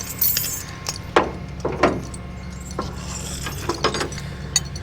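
Several scattered clinks and knocks, loudest a little over a second in, over a steady low hum.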